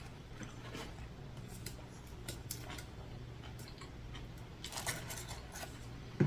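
Quiet close-up eating sounds: soft chewing and mouth clicks, with a denser patch of crackly clicks about five seconds in and one sharp click near the end, over a steady low hum.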